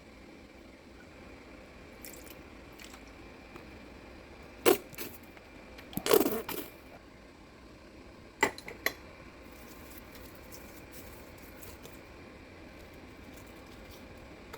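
A few sharp clinks and knocks of kitchen utensils and cookware over a steady low hiss: a single clink, then a short clatter, then two quick knocks.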